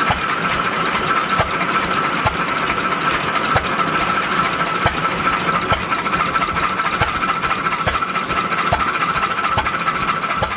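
1906 International single-cylinder portable stationary engine running, with a sharp firing knock about once a second at uneven intervals, over a steady high whine.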